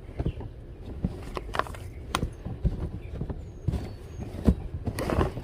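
Things being rummaged through and handled: irregular knocks, clacks and rustles, over a low steady rumble.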